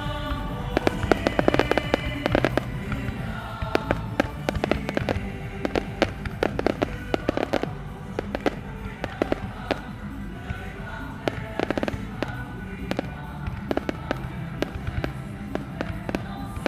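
Aerial fireworks display: many sharp bangs and crackles at an irregular pace, over music playing.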